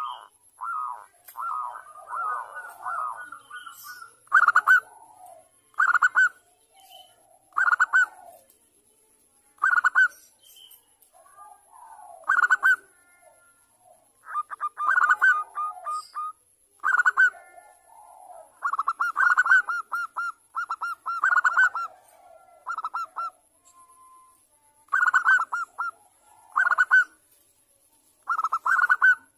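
Zebra doves (perkutut) cooing: short rolling trills of rapid notes, repeated every second or two, with fainter lower calls in between.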